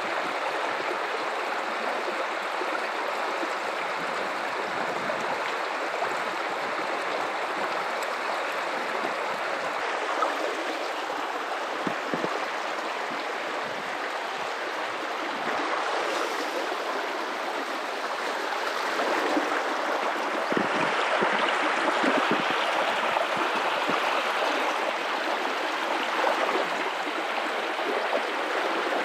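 Guadalupe River flowing over rocks: a steady rushing and burbling of running water, swelling slightly louder a little past the middle.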